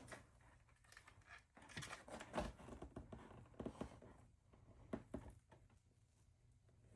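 Near silence with a few faint handling sounds: soft taps and rustles as foam board pieces are handled and held together.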